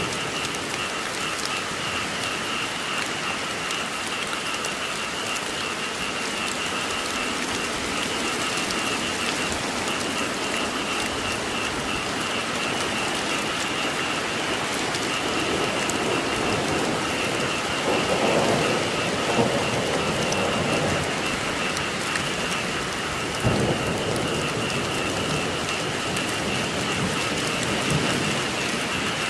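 Steady heavy rain hissing on surfaces, with a chorus of frogs calling continuously behind it. Thunder rumbles through the middle and ends in a sudden crack about two-thirds of the way through.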